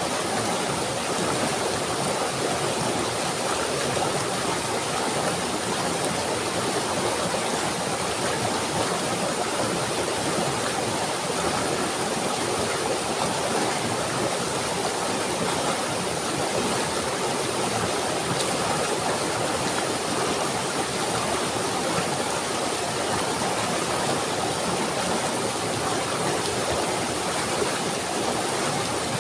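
Steady, unbroken rush of running water, like a stream or small waterfall.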